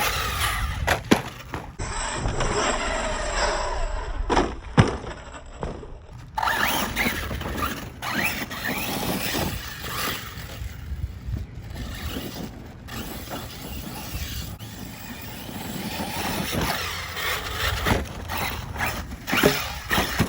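Electric RC trucks running on dirt and gravel: brushless motors whining up and down in pitch, with tyres scraping over loose ground and sharp knocks from bumps and landings.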